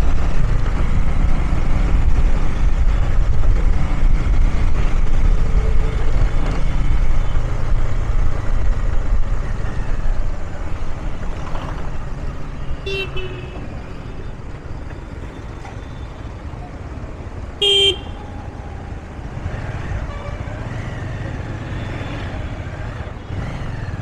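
Low rumble of riding a motorbike through city traffic, heavier for about the first ten seconds and then lighter. A vehicle horn gives a short beep about thirteen seconds in and a louder, brief honk a few seconds later.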